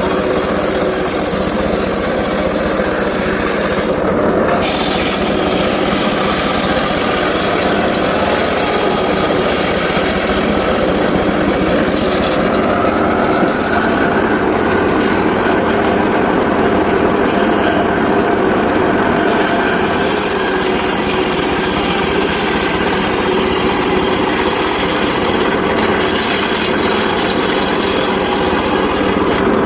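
Home-built circular saw sawing sengon laut timber, the blade cutting through wood over a steady engine drive. The sound shifts a few seconds in and again for several seconds near the middle as the blade's load changes.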